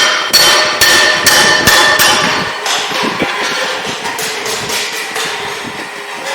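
A rapid series of sharp metallic strikes, each ringing briefly. They come about two to three a second at first, then turn quicker and lighter after about two and a half seconds.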